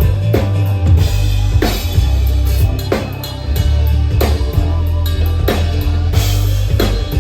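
Live band playing an instrumental passage: a steady drum-kit beat over heavy bass, with guitar.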